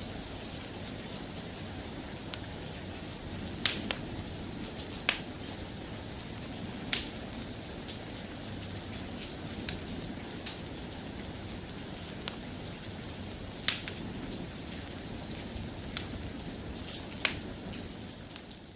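Steady soft rain, with a sharp pop every couple of seconds standing out above it. The sound fades out at the very end.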